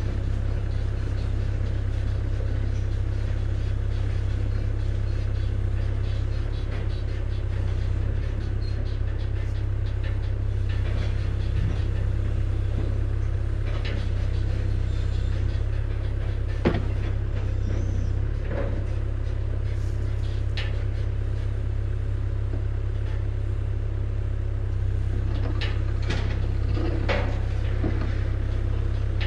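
Road vehicle driving, a steady low rumble of engine and road noise with a few light knocks.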